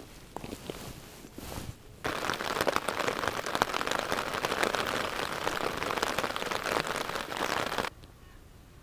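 Steady rain falling on a lake's surface, a dense hiss of countless fine drops. It begins suddenly about two seconds in and cuts off about a second before the end.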